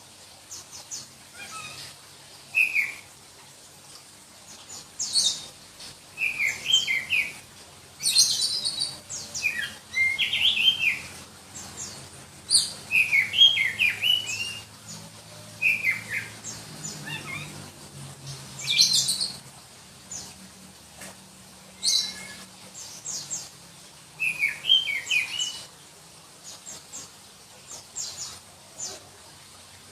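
Black-breasted kacer (Bornean oriental magpie-robin) singing: short, shrill phrases of quick slurred whistles and sharp high notes, one every two to three seconds with brief pauses between.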